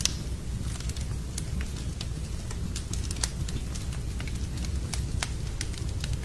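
Wood fire in a fireplace crackling, with irregular sharp pops, a louder one right at the start and another about three seconds in, over a steady low rumble.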